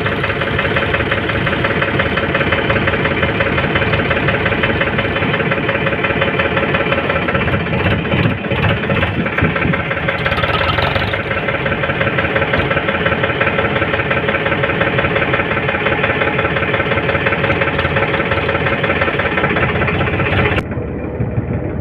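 Diesel engine of a JCB 3DX backhoe loader running steadily as the machine works, with a brief rise in engine note about halfway through. The sound changes abruptly and drops in level shortly before the end.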